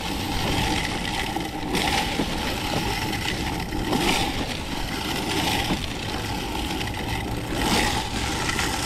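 Strong wind buffeting the microphone: an uneven rumble with hiss that swells in gusts every couple of seconds.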